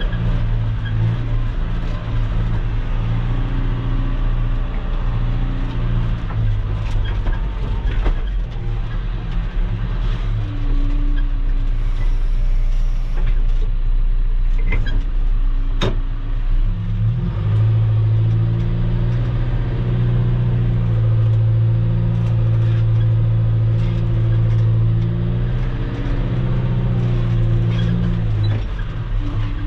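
Engine of earth-moving equipment running continuously, its pitch and load shifting several times and heaviest in the second half. There is a sharp metallic clank about halfway through.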